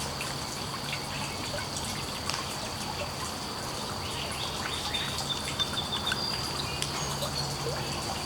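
Woodland ambience: water trickling and dripping steadily, with scattered drips, a few brief bird chirps and a thin steady high-pitched tone throughout.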